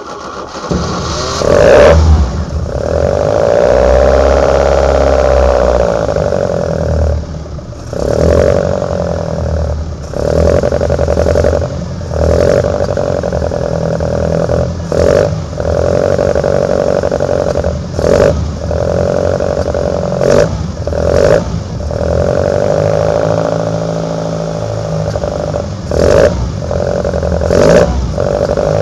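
Four-cylinder engine of an Opel Kadett GS 16v breathing through twin side-draft Solex C40 ADDHE carburetors, just after a cold start: running at a raised idle with about ten short throttle blips, the intake sound swelling with each one.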